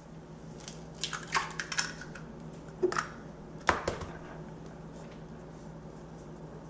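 Eggs being cracked into a blender jar: several sharp taps and cracks of shell, the loudest about three and four seconds in, over a faint steady hum.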